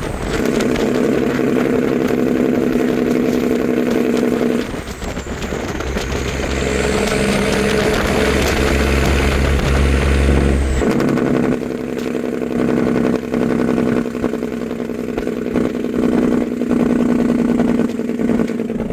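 Dump truck's Cummins diesel engine running steadily, its note changing at about five seconds in and again at about eleven seconds in.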